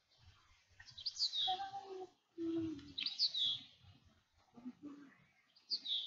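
A songbird singing a short phrase of quick, high, falling notes three times, about two seconds apart.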